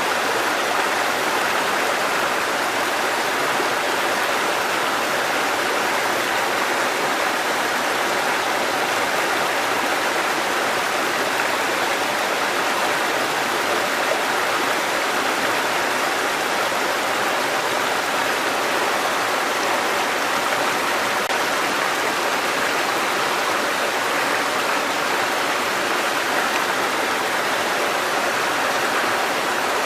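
Water cascading over rocks in a mountain stream: a steady, even rushing.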